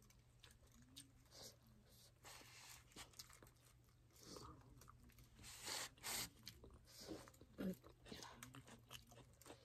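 Faint chewing and crunching of chicken rolls being eaten, with a few louder crackling strokes around the middle, over a faint steady low hum.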